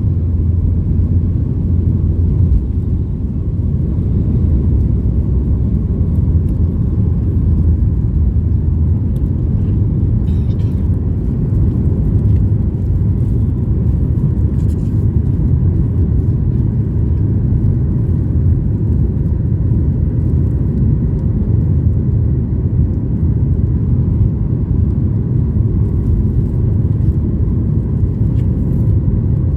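Steady low cabin rumble of a Boeing 737-8200 MAX airliner: its CFM LEAP-1B engines and the airflow over the fuselage heard from inside the passenger cabin, with a faint steady hum over it.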